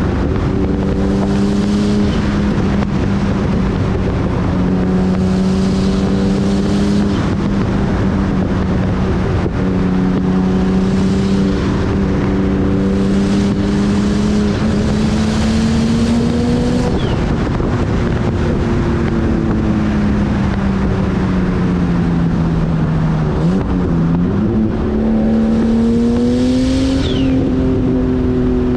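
Nissan R33 Skyline engine droning steadily while driving, over road and wind noise; about three-quarters through the engine note drops and then climbs again as the revs fall and rise.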